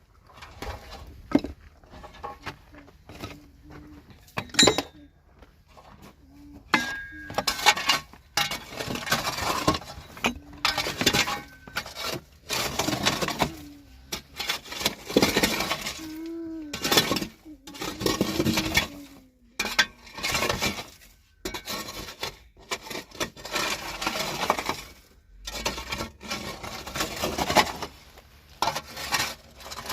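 Hard objects clattering and clinking irregularly, as in handling dishes and metal utensils, with many separate knocks, some leaving a short ringing tone.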